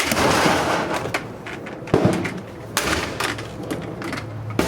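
A refrigerator being smashed: about half a dozen heavy, uneven blows strike its panels and parts, with crashing and clattering between them.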